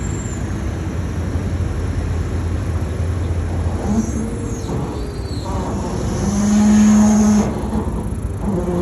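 A boat engine drones low and steady over a constant rush of wind and water noise. The drone drops away a little before four seconds in. A short steady pitched tone lasting about a second stands out around seven seconds in.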